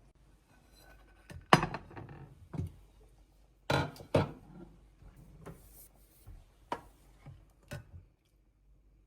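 Dishes and glassware being set down and arranged on a table: a handful of separate clinks and knocks, the loudest about one and a half seconds in and two close together around four seconds in.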